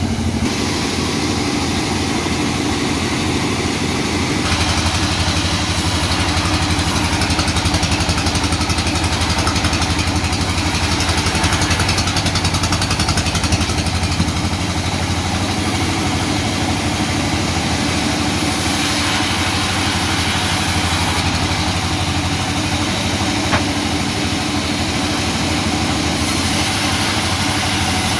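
Sawmill machinery running steadily on engine power, a constant low engine tone with a noisier, louder layer from about four seconds in.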